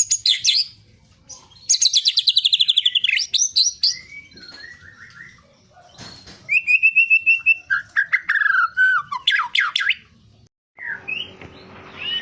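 White-rumped shama (murai batu) singing loud, varied song: a fast trill that slides downward, clear whistled notes and steep sweeping calls. The song breaks off briefly near the end, then goes on over a faint hiss and a steady low hum.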